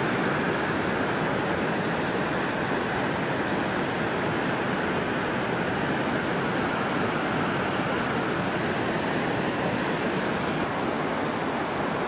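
Waterfall: a steady rush of falling water, with the highest hiss dropping slightly near the end.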